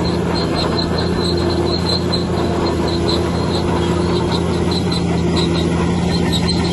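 Bulldozer's diesel engine running steadily under load while its steel crawler tracks squeak and clank in a quick, regular rhythm.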